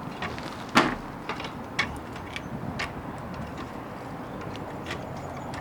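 Wood bonfire crackling: irregular sharp pops and snaps over a steady low hiss, the loudest pop a little under a second in.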